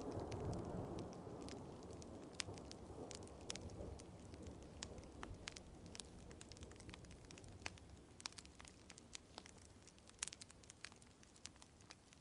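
Wood fire crackling, with sharp pops scattered throughout, over a soft hiss of rain. The low rumble of a thunderclap dies away over the first few seconds.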